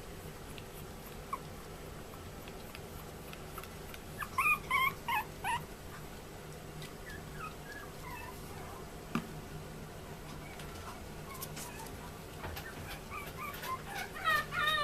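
Chihuahua puppy whimpering in short, high-pitched cries: a quick run of four or five about four seconds in, a few fainter ones a little later, and more starting near the end, over a steady low hum.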